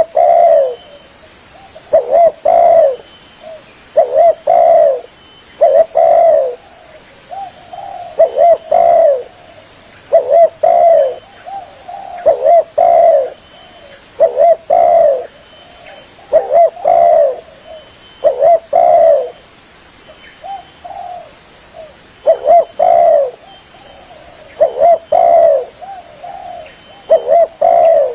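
Spotted dove (tekukur) cooing its song over and over, each phrase a short group of loud coos repeated about every two seconds.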